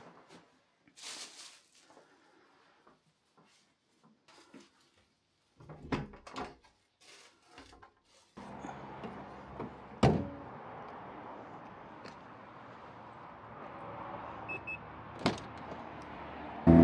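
Car door and handling noises: scattered faint clicks and rustles, then about eight seconds in a steady low hum sets in, with two sharp thuds, the louder one about ten seconds in.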